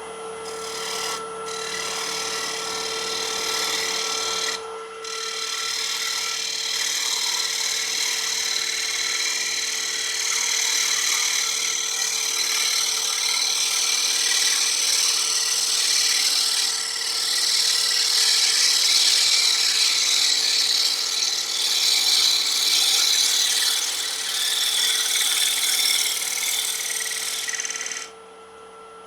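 Wood lathe running while a turning tool cuts wet black locust, a steady shaving hiss over the machine's hum, broken briefly twice early on as the tool is lifted. The cutting stops near the end and the lathe keeps running.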